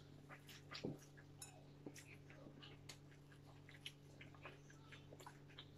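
Faint eating sounds: scattered small, irregular clicks and smacks of people chewing fried food and picking at it by hand, over a low steady hum.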